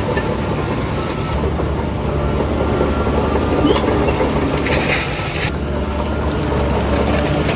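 Crawler bulldozer working: a diesel engine runs steadily under the clatter and squeak of its steel tracks. A short hiss comes about five seconds in.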